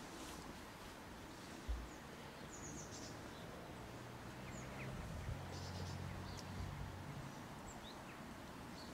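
Quiet outdoor ambience with scattered small bird chirps. A low steady hum rises for a few seconds in the middle, and there is a single low thump about two seconds in.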